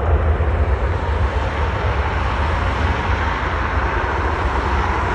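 Steady jet engine noise from a Boeing 737 airliner that has just touched down, a dense rumble heaviest in the low bass that eases slightly near the end.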